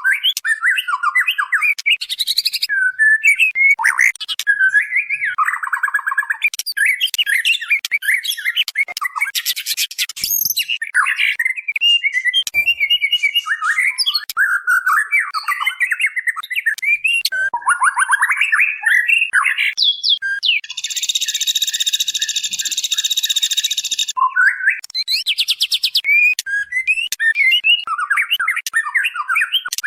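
Female white-rumped shama calling nonstop: rapid, varied chirps, squawks and whistled phrases. About twenty seconds in comes a harsh, buzzing rasp lasting three or four seconds. These are the calls a female gives to draw a male.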